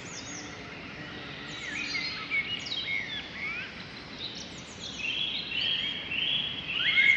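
Small birds chirping and calling over a steady background hiss of outdoor ambience, with short scattered chirps that grow busier, with quick repeated notes, near the end.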